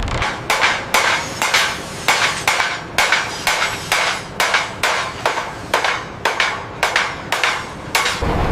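A hammer striking metal in a steady rhythm, about two blows a second, each with a short ringing tail.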